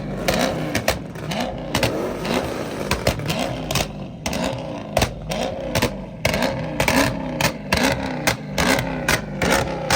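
Car engine revved hard again and again, its pitch climbing and dropping about twice a second, with sharp cracks and pops from the exhaust throughout.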